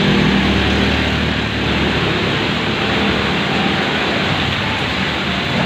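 Heavy rain falling on a moving car, a steady loud hiss over a low engine hum.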